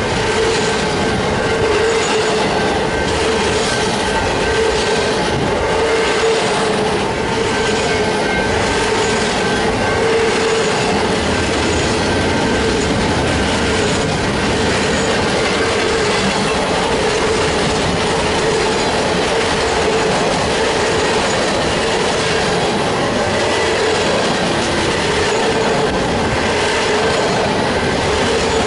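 Union Pacific mixed freight train's cars rolling steadily past, steel wheels running on the rails, with a steady high tone running through the rumble.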